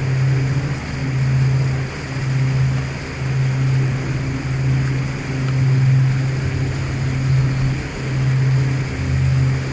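Boat engine running with a steady low hum, over the rush of water along the hull, the sound swelling and easing about once a second.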